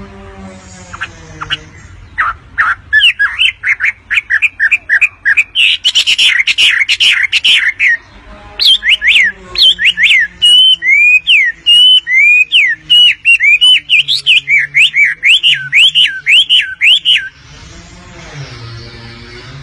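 Wambi bird singing in full voice: a fast, loud run of rapid repeated chirping notes, with a short break about eight seconds in, stopping a couple of seconds before the end.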